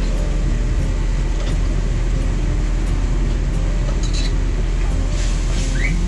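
Loud, steady low rumble with faint background music over it.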